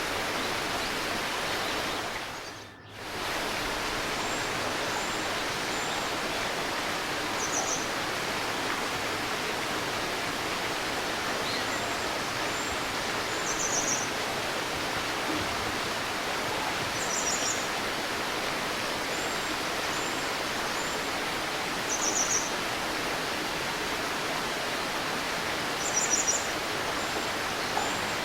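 Shallow river or stream babbling steadily, with small birds giving short, high chirps in little clusters every few seconds. The water sound briefly fades down and back up about three seconds in.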